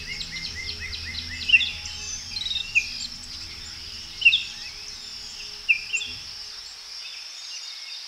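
Wild birds chirping and calling, starting with a quick run of about eight short chirps and then scattered single calls, over a steady high-pitched drone. Soft background music fades out about six seconds in.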